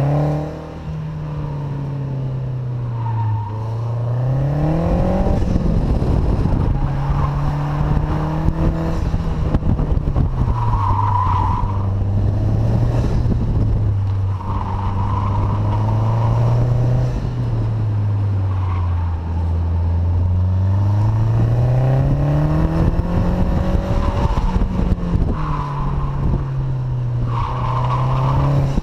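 Mazdaspeed 6's turbocharged 2.3-litre four-cylinder engine pulling hard, its pitch rising and falling again and again as the car accelerates and slows between cones. Short bursts of tyre squeal come several times as it corners.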